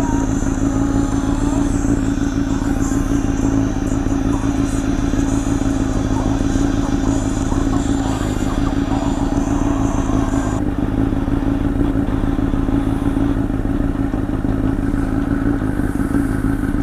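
Honda CBR1000's inline-four engine through a Two Brothers aftermarket exhaust, running at a steady, unchanging pitch.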